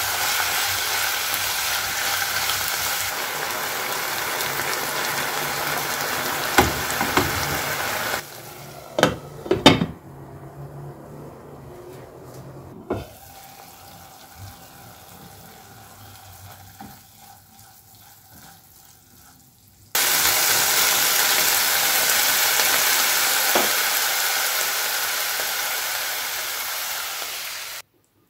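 Ground beef and chopped onion sizzling as they fry in a nonstick frying pan, stirred with a silicone spatula, with a few sharp knocks against the pan. The sizzle drops low for about ten seconds in the middle, comes back loud, and cuts off suddenly near the end.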